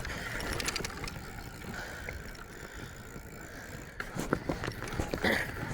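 Wind buffeting the phone's microphone during a ride, with scattered knocks and rattles, several of them near the end.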